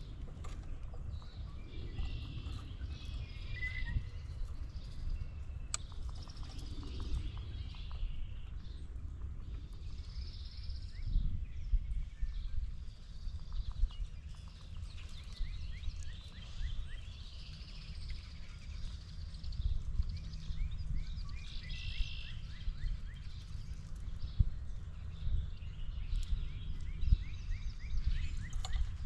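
Wild birds calling again and again over a steady low rumble, with scattered sharp clicks.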